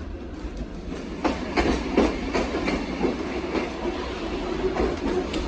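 Kuranda Scenic Railway train running, its wheels clicking over rail joints in a quick run of clickety-clack from about a second in to past halfway, over a steady low rumble.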